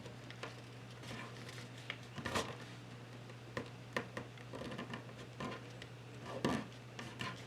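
A paper sheet being folded and creased by hand: irregular rustles, taps and scrapes, with louder strokes about two, four and six and a half seconds in, over a steady low hum.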